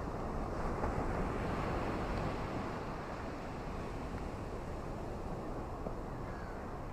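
Ocean surf washing on a shore: a steady rushing noise that swells about a second in and slowly eases off.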